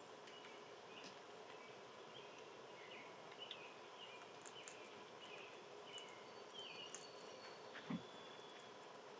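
Faint outdoor ambience with small birds giving scattered short chirps and calls, and a single soft knock about eight seconds in.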